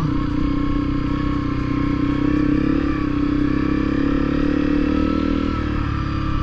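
Honda CRF250L single-cylinder four-stroke engine running at a steady pitch while riding a dirt trail, easing off briefly near the end.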